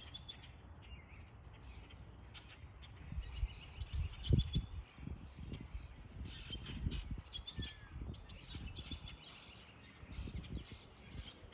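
Many small birds chirping and twittering in quick, short high notes throughout, over low rumbling thumps that are loudest about four seconds in.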